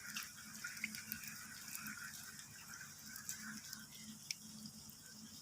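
Light rain dripping, faint and steady, with scattered sharp drips. A faint low hum pulses underneath about four times a second.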